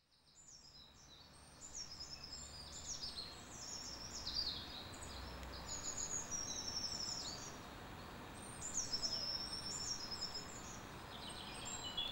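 Several small birds chirping, with many quick high notes and short trills in overlapping runs, over a steady even background hiss. The sound fades in over the first couple of seconds.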